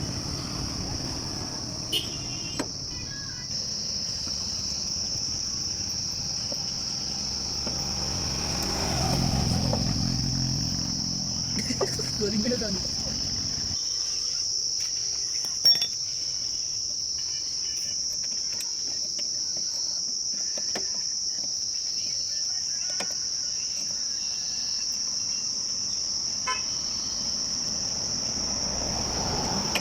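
Insects trilling, a steady high continuous drone throughout. A low rumble underneath stops abruptly about halfway through, and a few sharp clicks come through, the loudest about two-thirds of the way in.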